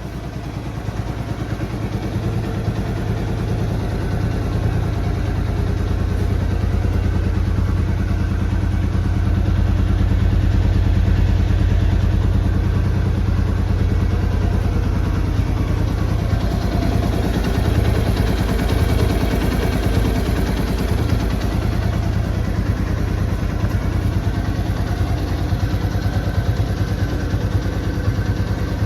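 Old-model Hero Honda CBZ's single-cylinder four-stroke engine idling steadily through its exhaust, with a fast, even beat of exhaust pulses. It grows a little louder over the first few seconds, then holds steady.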